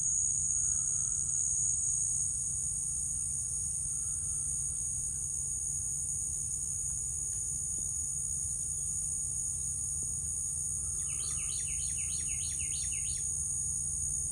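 Steady high-pitched insect trill, like crickets, over a low background rumble, with a bird's rapid run of about seven chirps about eleven seconds in.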